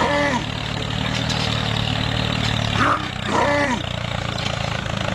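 A DIY mini tractor's motor running with a steady low hum. Two short pitched cries with falling pitch sound over it, at the very start and again about three seconds in.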